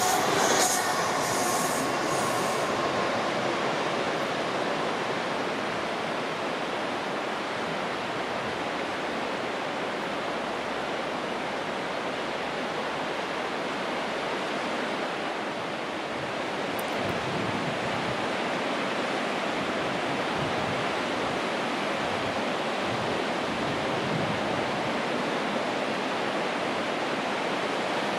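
A passenger train's wheels squealing, several high tones that fade out within the first couple of seconds. A steady rushing noise follows and holds for the rest.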